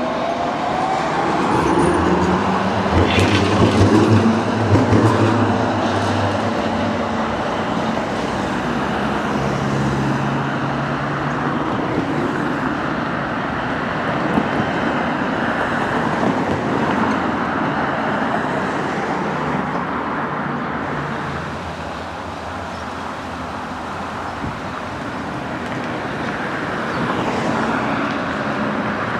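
Sheffield Supertram Siemens-Duewag tram running past, its motor whine rising in pitch in the first couple of seconds, with some knocks a few seconds in, over steady road traffic.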